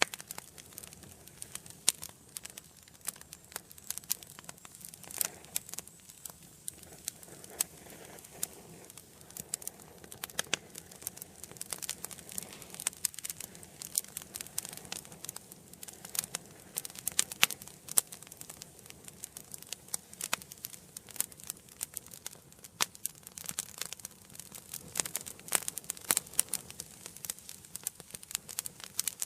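Wood fire burning in a fireplace: a steady stream of irregular crackles and sharp pops over a soft hiss of flames.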